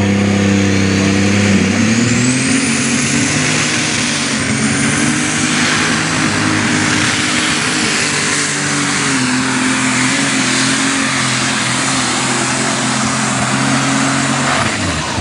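Unlimited super stock pulling tractor, a John Deere 9200 on alcohol, running flat out down the track. Its engine note steps up about two seconds in, and a thin high whine climbs and then holds. The engine note falls away near the end as the run finishes.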